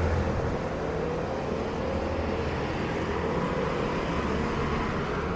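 Steady road-vehicle noise: a low rumble with hiss above it, easing slightly in the first half second.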